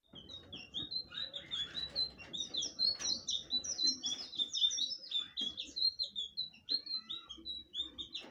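Blue flycatcher (sikatan biru) singing a fast, unbroken string of short, high notes, each sliding downward.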